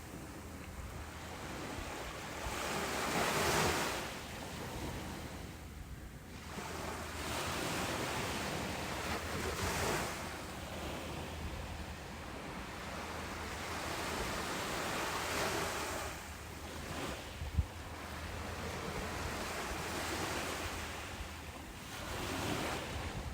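Ocean waves breaking on a beach, the surf swelling and fading every several seconds, with one brief low thump about three-quarters of the way through.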